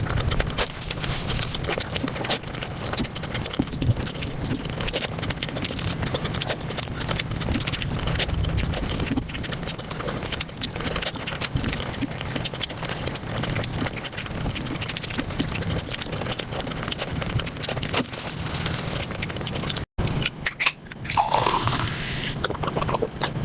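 Eating sounds played at five times speed: chewing, smacking and crunching run together into a dense, rapid crackle of clicks. The sound breaks off briefly near the end and resumes with a short gliding sound.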